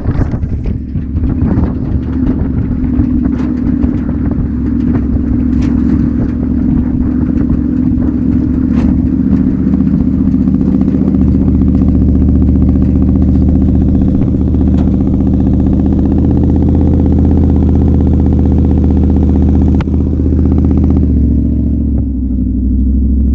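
V8 engine of a 4x4 running steadily under load, with scattered clatter and knocks over the first several seconds. The engine note dips briefly and shifts in pitch near the end.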